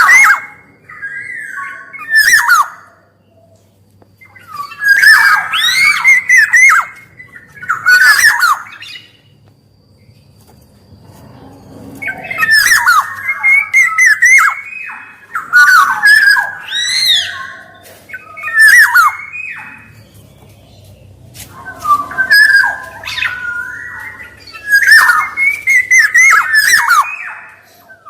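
Black-naped oriole (kepodang) calling in repeated phrases of harsh squawks mixed with whistled notes, each phrase a second or several seconds long, with short pauses between them.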